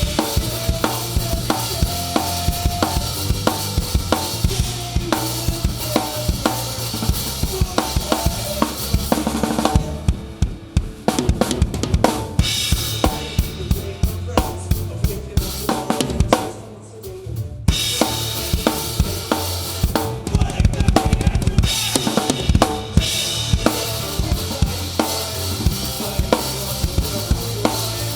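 Live rock band playing an instrumental passage, heard close to the drum kit: kick drum, snare with rimshots and cymbals over a held bass line. About ten seconds in the cymbals drop out for a sparser drum passage, and the full band comes back in a little before the twenty-second mark.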